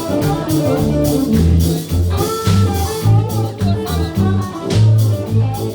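Band playing a cover song: a bass line with steady low notes, drum kit hits and guitar, with no singing.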